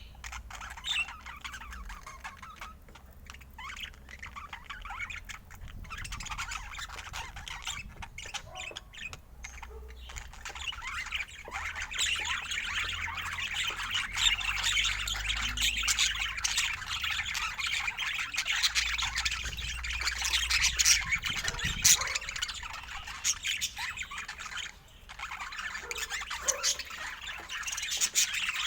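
Many birds chattering and squawking at once, short calls overlapping in a dense, continuous chorus that grows louder about twelve seconds in.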